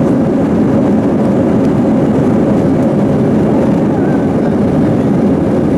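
Steady drone of an Airbus A320's jet engines and airflow heard inside the passenger cabin.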